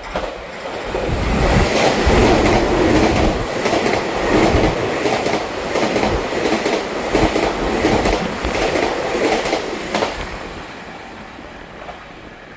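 Taiwan Railway 3000-series electric multiple unit passing, with a loud rush that swells within the first two seconds and fades after about ten. Repeated sharp clacks run through it as the wheels strike the rail joints' fishplates.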